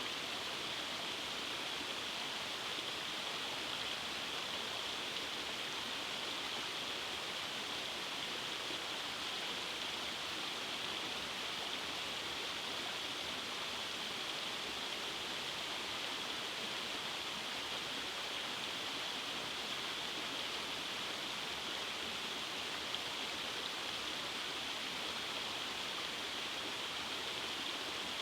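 Rainforest stream running over small cascades: a steady, unbroken rush of water.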